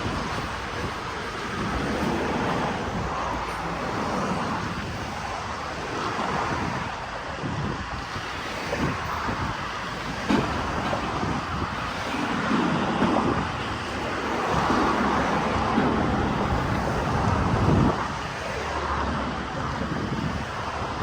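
Diesel locomotives moving through a rail yard: a steady, shifting rumble with wind on the microphone.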